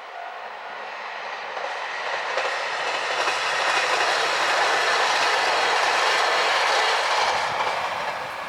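A JR Hokkaido diesel train passing over a level crossing, with rail clatter from the wheels. It builds up, is loudest from about three to seven seconds in, then fades away.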